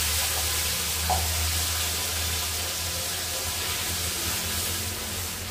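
Freshly ground masala paste sizzling in hot oil in a kadai, just poured in and being stirred. The sizzle eases off slowly, and a spoon taps the pan once about a second in.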